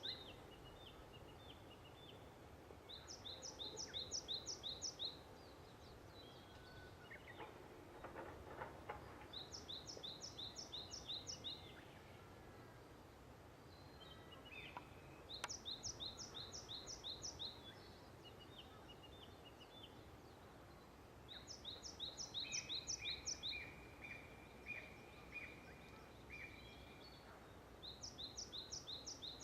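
Birdsong: one songbird repeats a quick, high phrase of about six two-part notes every five or six seconds, and about two-thirds of the way through a second, lower bird gives a run of short notes.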